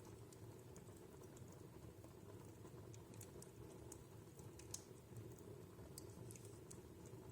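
Wood fire in a fireplace crackling faintly: sparse, irregular pops and ticks over a low, steady rush of burning, with one sharper pop about four and a half seconds in.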